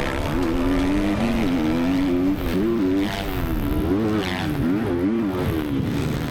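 Triumph TF 250-X's 250cc four-stroke single-cylinder motocross engine being ridden on the track. Its pitch rises and falls over and over, roughly once a second, as the throttle is opened and shut.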